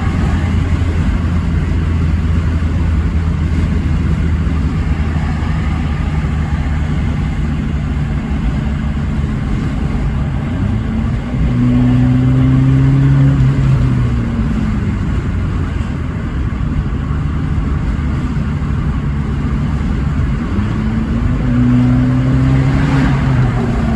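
Abarth 500C esseesse's turbocharged 1.4-litre four-cylinder engine running at steady revs, then revving up twice, about eleven seconds in and again about twenty seconds in. Each time the pitch rises, holds for a couple of seconds, then drops back.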